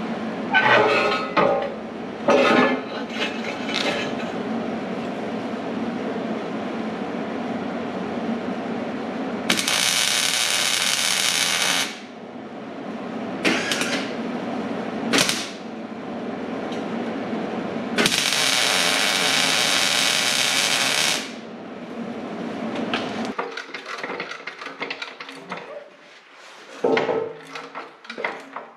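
Metalworking in a shop: two loud hissing bursts of a power tool working steel, each two to three seconds long, over a steady machine hum that cuts out about 23 seconds in. Sharp knocks and clanks of metal being handled come between them and after.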